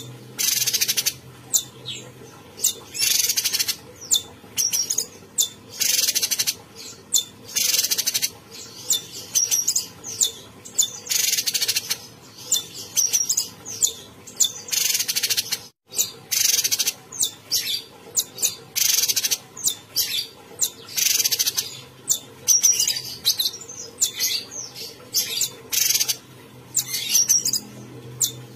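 Cucak cungkok songbird singing vigorously, with short, harsh, high chattering phrases repeated every half second to a second. A brief gap cuts in near the middle.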